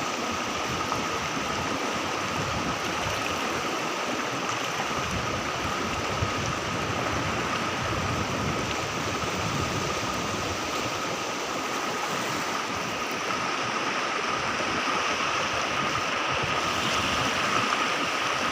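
River water rushing steadily over its bed.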